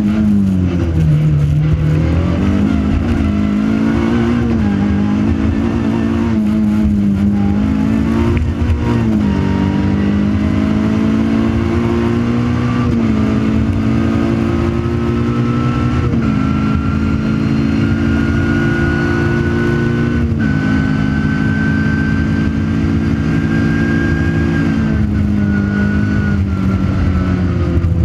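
Opel Corsa rally car's 1600cc four-cylinder engine, heard from inside the cabin as it is driven hard through the gears. The pitch climbs and then drops sharply at each gear change, several times. A high whine rises slowly through the middle.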